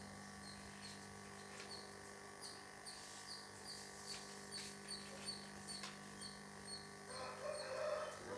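Background bird and animal sounds: a thin high chirp repeating evenly a few times a second over a steady hum, with a brief louder call near the end.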